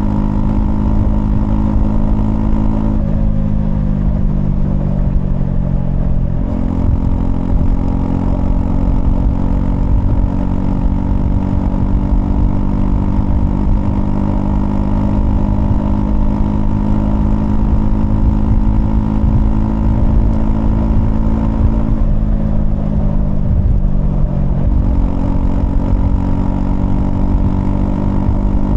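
Honda CL250 motorcycle engine running under way, heard from the rider's position, with a low rush of road and wind noise. Engine speed drops about 3 seconds in and sinks for a few seconds before picking back up, and does the same again near the end.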